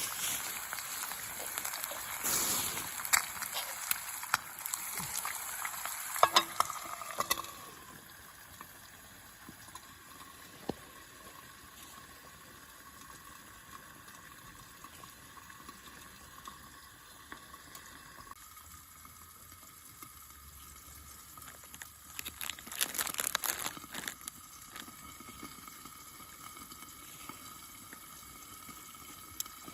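Steak sizzling in a frying pan over a small camp stove, with sharp crackling pops, for the first seven seconds or so. After that it drops to a faint steady tone, with another short burst of sizzling about 23 seconds in.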